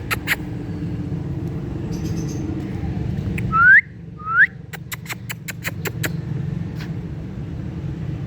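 Indian ringneck parrot giving two short rising whistles about half a second apart, followed by a quick run of sharp clicks, over a steady low rumble like distant traffic.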